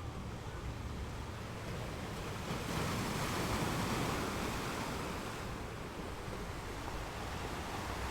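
Sea waves washing onto a shore. One wave swells up about three seconds in and ebbs away over the next few seconds.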